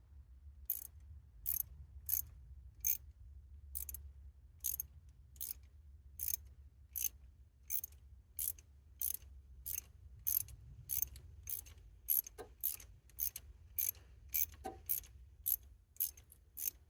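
Ratchet wrench clicking stroke after stroke, about one and a half clicks a second and quickening near the end, as a glow plug is unscrewed from a Kubota D905 diesel's cylinder head. The plug turns but may be spinning in place rather than backing out.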